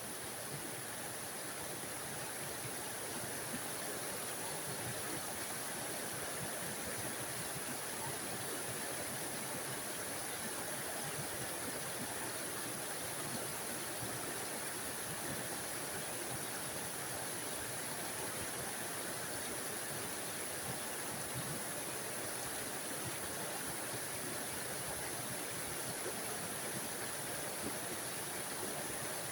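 A small forest waterfall splashing steadily, a constant even rush of falling water without pauses.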